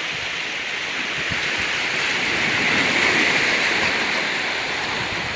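Ocean waves washing onto a rocky beach: a steady rush of surf that swells to its loudest about halfway through and then eases.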